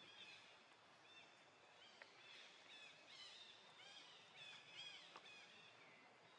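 Faint chirping of small birds: many short, quick chirps overlapping, busiest around the middle.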